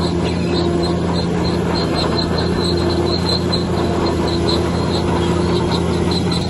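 Heavy diesel engine of earthmoving machinery running steadily under load, with short high-pitched chirps or squeaks coming and going over it.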